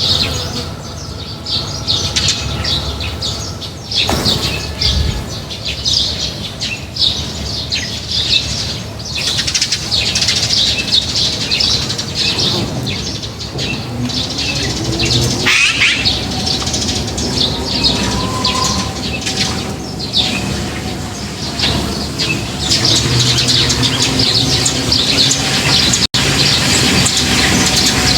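A flock of small birds chirping busily and without a break at a feeding spot, many short calls overlapping.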